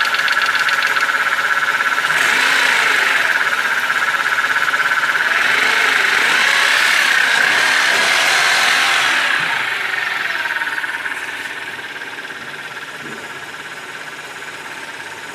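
BMW E46 318 four-cylinder engine running with a rapid clatter from its hydraulic lifters, the sign of worn, run-in lifters. The engine grows louder twice and falls quieter in the last few seconds.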